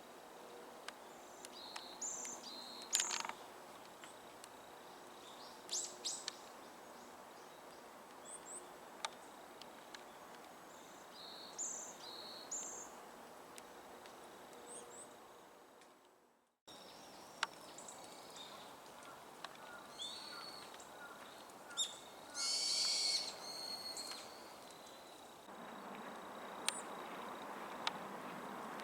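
Varied tit singing: short, high notes in phrases a few seconds apart. After a sudden cut just past halfway, other small-bird calls follow, the loudest and longest about three quarters of the way through.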